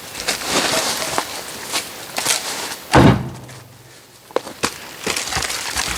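Oak firewood logs being handled: wood scraping and rustling, a heavy thud about three seconds in as a log is set down, then two sharp knocks of wood on wood.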